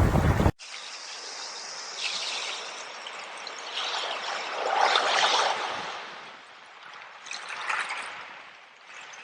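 Water trickling and splashing in a small stream, swelling and fading in uneven surges. It is preceded by a brief burst of wind-and-surf noise that cuts off abruptly about half a second in.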